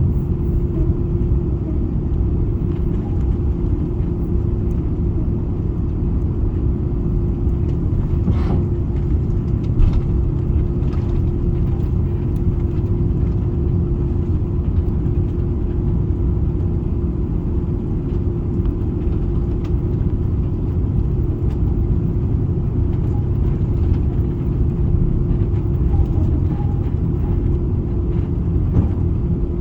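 Cabin noise inside an Airbus A330-200 airliner: a steady low rumble from the engines and airframe with a constant hum over it, and a couple of short knocks about eight and ten seconds in.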